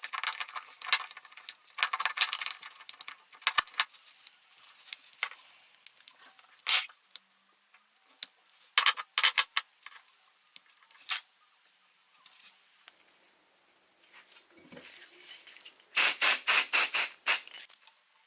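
Light clicks, taps and scrapes of small toy parts being handled during priming and painting, then near the end a quick run of about six short, loud noisy bursts.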